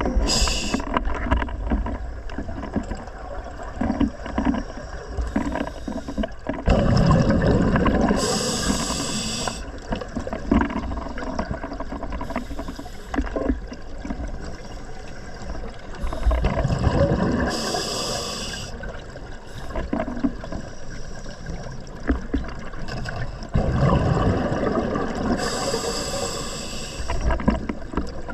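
Scuba diver breathing through a regulator underwater: a sharp hiss of air through the demand valve and a rumbling, gurgling rush of exhaled bubbles, repeating in slow breaths about every eight to nine seconds.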